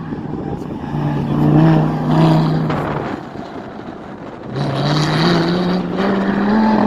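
Lamborghini Gallardo's V10 engine pulling hard on a track lap. It holds a steady note, drops away for a moment a few seconds in as the throttle is lifted, then rises steadily in pitch as it accelerates again.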